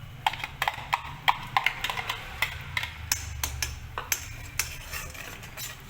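Metal spoon clinking and scraping against a pan while butter and garlic are stirred in: a string of irregular sharp clicks, several a second.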